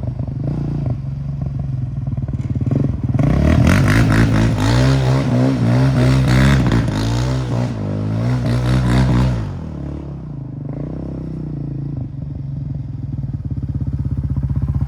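Yamaha Raptor 700R's single-cylinder four-stroke engine idling, then revved again and again for about six seconds, the pitch rising and falling, before settling back to idle. Near the end the sound slowly grows louder.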